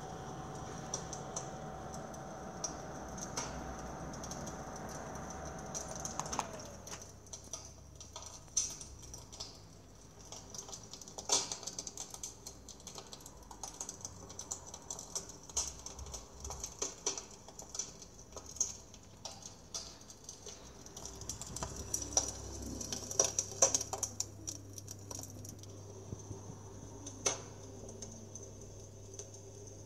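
Electric fireplace's built-in wood-fire crackling sound effect: irregular pops and clicks. For the first six seconds the unit's heater blower hums steadily with a whining tone, then stops with a falling pitch.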